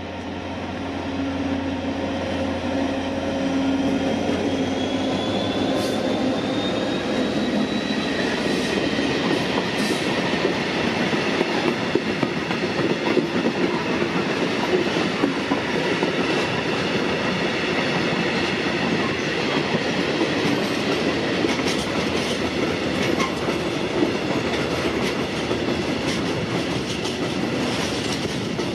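A freight train passing: the diesel locomotive's low engine hum fades within the first few seconds, and a steady, loud rumble of rolling wagons follows. Through it run clickety-clack from the wheels on the rail joints and a thin, high wheel squeal.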